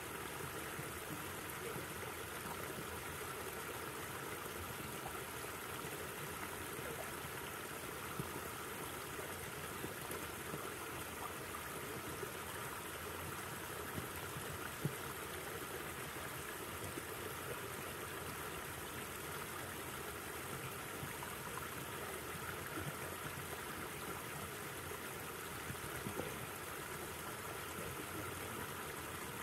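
A river flowing steadily, its water rushing and trickling with a few small splashes.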